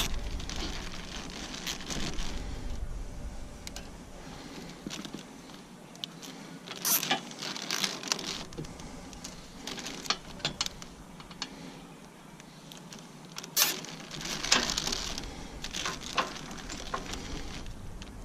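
Hand work on the loader attachment: scattered clicks, snips and light metallic rattles, with a few louder knocks about 7 s and 14 s in.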